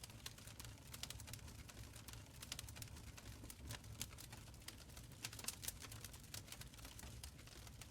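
Wood fire crackling in a stone fireplace: faint, irregular sharp pops and snaps, several a second, over a soft low rumble.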